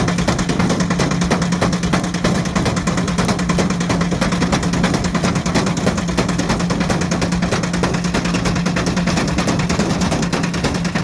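Ariston Margherita washing machine running fast with a brick loose in the drum: a steady motor hum under rapid, continuous knocking and rattling as the brick batters the drum.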